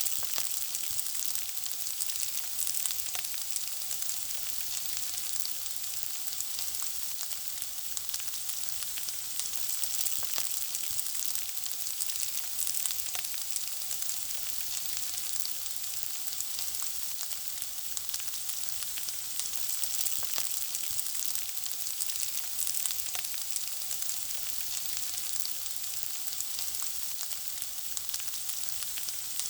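Food frying in hot oil: a steady sizzle with dense fine crackling and spitting.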